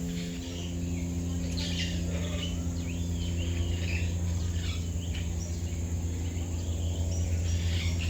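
Birds chirping and calling, many short chirps and warbles overlapping at irregular intervals, over a steady low hum.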